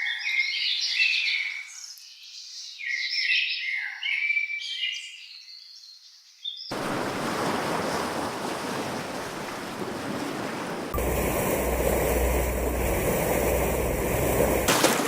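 Songbirds chirping and singing for about six seconds, then a sudden cut to a steady rush of waves. About eleven seconds in, the sound changes again to louder rushing noise with a steady low rumble underneath.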